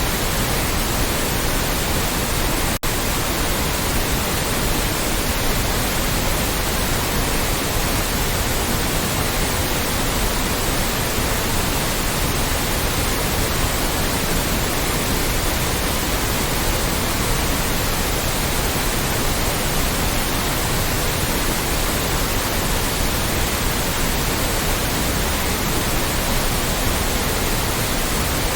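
Continuous, loud generated white noise, an even steady hiss spread across the whole range from deep to high, with one momentary dropout about three seconds in.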